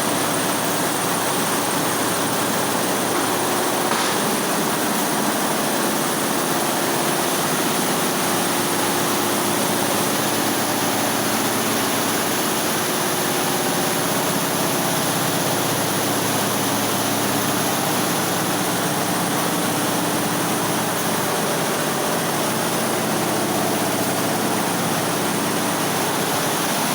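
A machine running steadily with an even mechanical noise and a low hum, and a single click about four seconds in.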